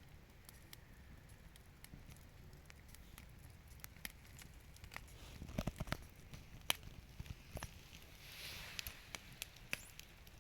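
Wood campfire crackling, with irregular sharp pops, a few louder knocks about halfway through and a short hiss near the end.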